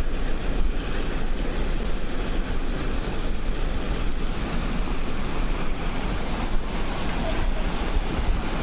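Rushing floodwater of a swollen monsoon stream, a steady even rush of water with no breaks, with wind rumbling on the microphone.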